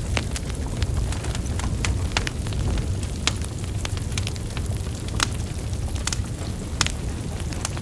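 Burning wood logs crackling: irregular sharp pops and snaps, some louder than others, over a steady low rumble of flames.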